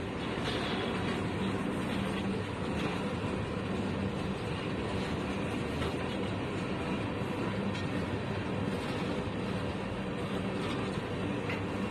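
Freight train boxcars rolling slowly past on the track, a steady, even noise of wheels on rails.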